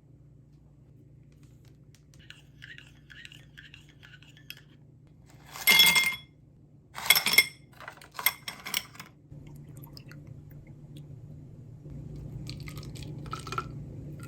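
Kitchen utensils working against dishes: two loud scrapes about halfway through, then a few clinks and clicks. A steady low hum starts a few seconds before the end.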